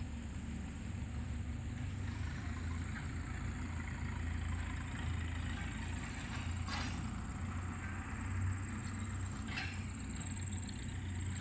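A motor vehicle's engine running steadily at a low idle-like hum, with a steady high-pitched tone above it and two sharp knocks, about seven and nine and a half seconds in.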